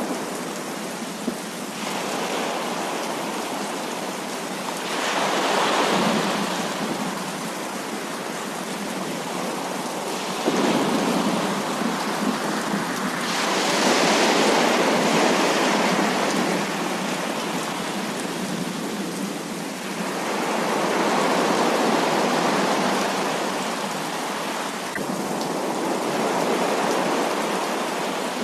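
Heavy rain falling as a continuous hiss that swells louder in surges of a few seconds, several times over.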